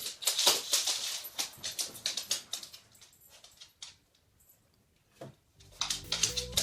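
A dog's claws clicking and scrabbling quickly and irregularly on a hard floor for about three seconds, then fading to quiet. Music starts about a second before the end.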